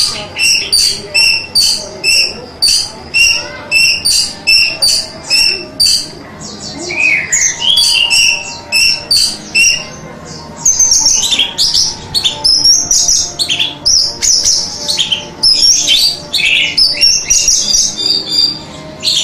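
Orange-headed thrush (anis merah) singing: a quick run of repeated high chirps, about two or three a second, then from about ten seconds in a denser stretch of varied, fast whistled phrases.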